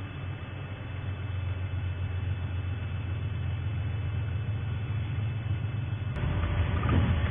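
Game-drive vehicle's engine running steadily with a low hum, slowly growing louder; about six seconds in a louder, rougher noise joins it.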